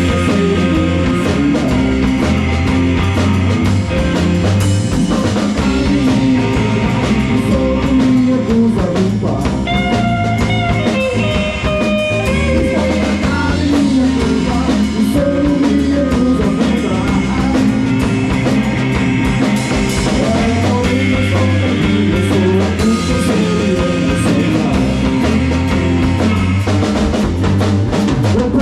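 Live rock band playing with drum kit and electric guitar over a heavy low end, steady and loud.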